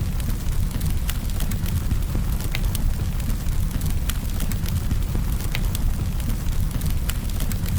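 Campfire burning, with a steady low rumble and frequent irregular sharp crackles and pops.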